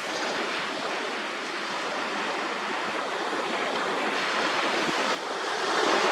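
Small sea waves washing in on the shore close by, a steady rush of surf that dips briefly about five seconds in and then swells louder.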